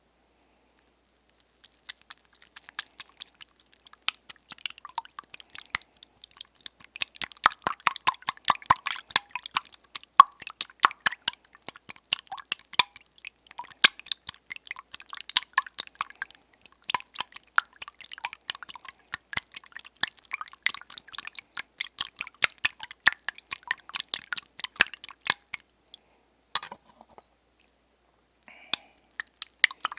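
Close-miked ASMR trigger sounds: a dense, irregular run of small wet clicks and crackles that stops about 25 seconds in, followed by two brief sounds near the end.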